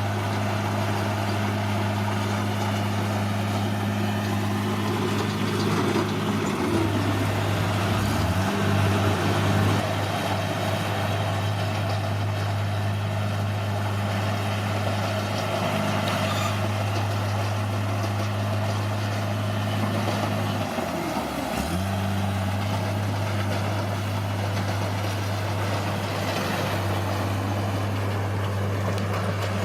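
Bulldozer's diesel engine running steadily under a rough, grinding noise, its pitch dropping and recovering twice: around seven to nine seconds in and again about twenty-one seconds in.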